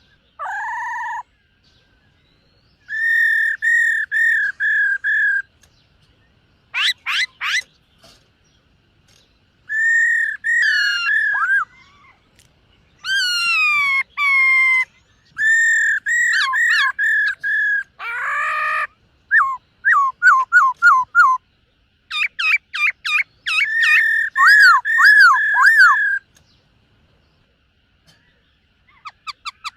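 Black-throated laughingthrush singing: phrases of clear, repeated whistled notes, some slurred up or down, each phrase lasting one to two seconds with short pauses between. The song stops for about three seconds near the end.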